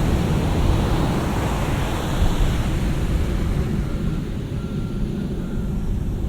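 Heavy shore-break ocean waves breaking and washing up the sand, a steady deep rushing with wind on the microphone.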